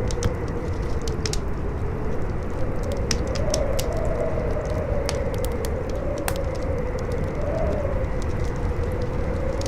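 Campfire crackling with scattered sharp pops, over a steady howling wind whose pitch slowly rises and falls, with a low rumble beneath.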